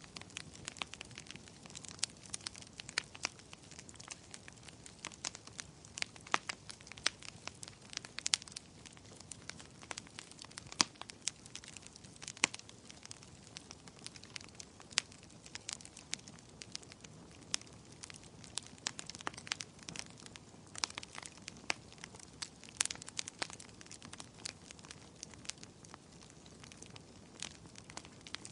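Wood fire in a fireplace crackling steadily, with irregular sharp pops and snaps over a soft hiss.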